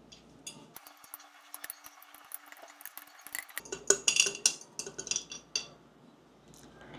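A utensil tapping and clinking against a glass, mashing a piece of banana in it as a stand-in for a muddler. The taps come in quick runs, loudest about four seconds in, and stop at about five and a half seconds.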